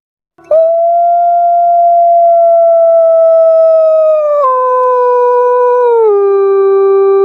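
Puter pelung dove holding one long, unbroken, steady note that starts about half a second in and drops in pitch in two sudden steps, near the middle and about six seconds in.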